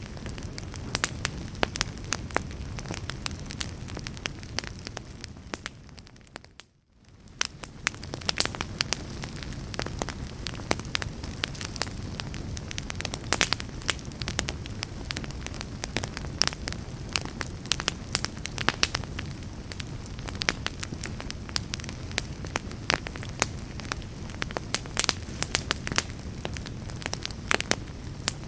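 Wood log fire crackling in a fireplace: frequent sharp pops and snaps over a steady low rumble of burning. About seven seconds in, the sound fades briefly almost to silence, then comes back.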